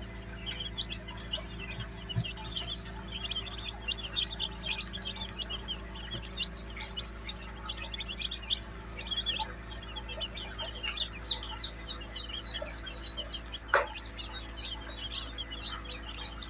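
A brood of chicks peeping continuously, many short high chirps overlapping. A single sharp tap about fourteen seconds in, over a steady low hum.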